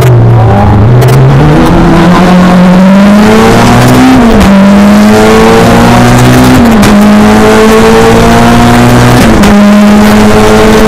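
Race car engine under hard acceleration, loud and steady in level. Its pitch climbs and dips sharply three times, at about four, seven and nine seconds in, as it changes up through the gears.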